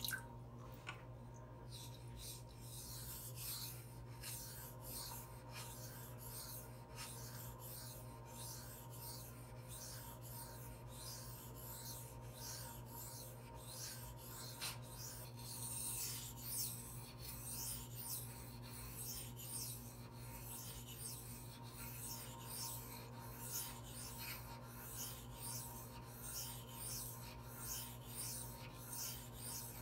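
A steel knife bevel is drawn back and forth across a Gritomatic 1200-grit silicon carbide sharpening stone, abrading steel. Each pass gives a rhythmic, fairly quiet rasping scrape.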